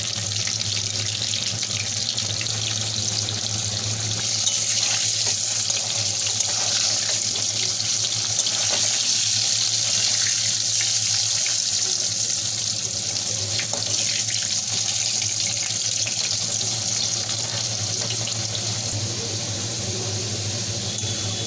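Potato pieces frying in hot oil in a pan, a steady sizzle with faint ticks.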